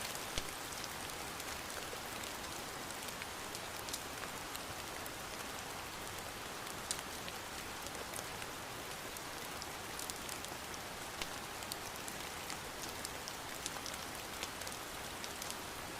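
Steady rain falling, an even hiss with many scattered sharp taps and ticks of drops throughout.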